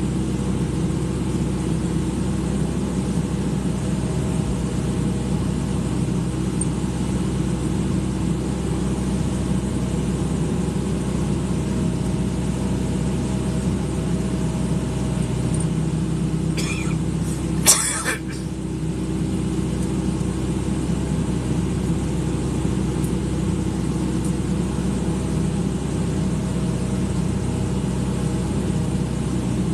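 Excavator engine running steadily at a constant speed, with a short sharp knock a little past halfway.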